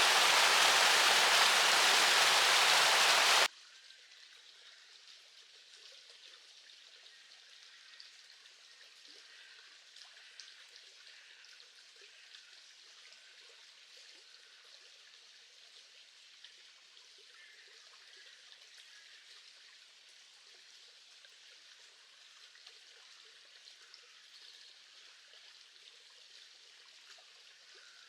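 Loud, steady rushing of river water that cuts off suddenly about three and a half seconds in. After the cut, a much fainter flow of water with light drips and trickles runs on.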